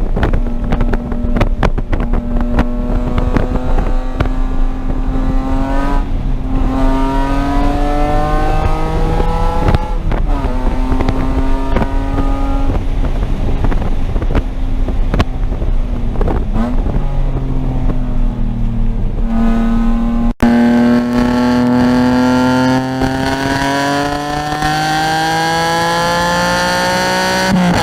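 Car engine running hard on track, its pitch holding, climbing and dropping several times as it shifts gears and slows for corners, with a long steady climb over the last third.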